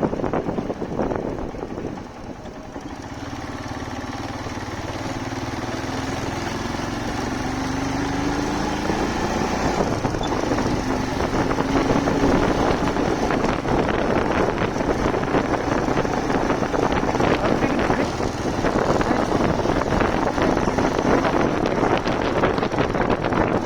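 Motorcycle engine pulling up through the gears as the bike gathers speed. Its note rises over several seconds, then holds steady under a growing rush of wind over the microphone.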